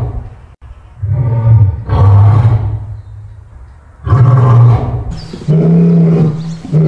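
Lions roaring: about four deep, moaning calls, each under a second long, with short pauses between them. The last call, about five and a half seconds in, is higher pitched than the others.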